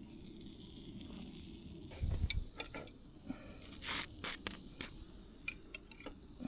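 Sizzling and crackling over a campfire, with a heavy low thump about two seconds in, followed by scattered sharp clicks and knocks.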